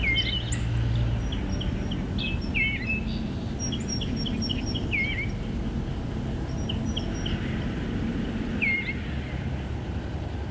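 Eastern bluebird singing: short, soft warbled phrases of curling notes, repeated every second or two, over a steady low background rumble.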